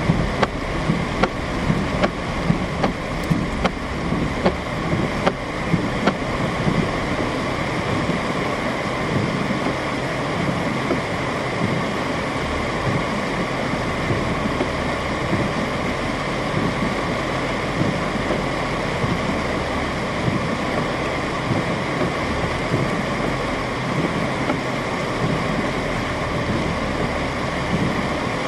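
Steady rushing noise of heavy rain and running water. Sharp ticks come about twice a second through the first six seconds or so.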